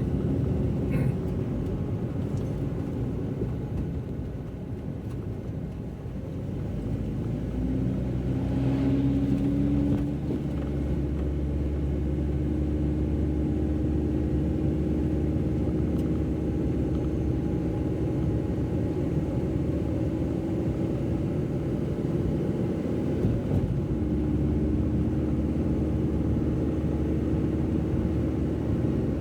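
A car driving along, heard from inside the cabin: a steady low engine hum and road rumble. The engine tone rises for a few seconds about seven seconds in as the car picks up speed, then holds steady.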